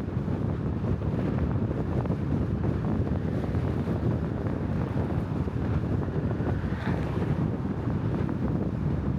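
Steady wind buffeting the microphone over a low, even rumble of travel. A faint brief chirp comes about seven seconds in.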